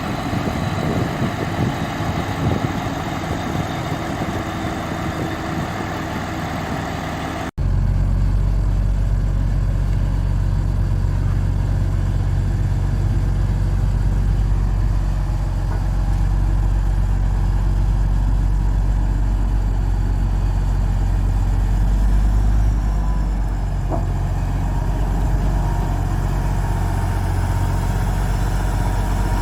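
Heavy diesel engine running. About seven seconds in the sound cuts abruptly to a deeper, steadier engine drone that holds to the end.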